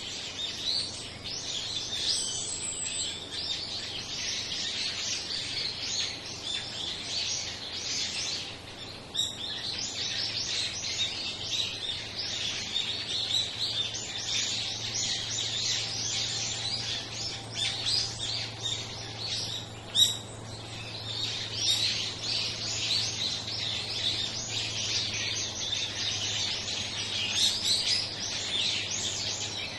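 A flock of small songbirds calling continuously, many short high chirps and twitters overlapping at once. A single sharp tap stands out about two-thirds of the way through.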